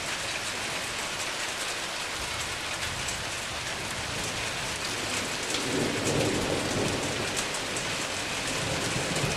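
Steady heavy rain during a thunderstorm, a dense hiss of falling drops with many small sharp drop ticks. A faint low rumble of thunder swells a little past the middle.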